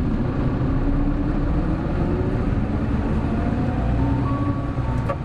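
Hino Blue Ribbon City Hybrid city bus under way, heard from inside the cabin: steady drive and road rumble with whining tones that drift in pitch as the speed changes. A short click comes near the end.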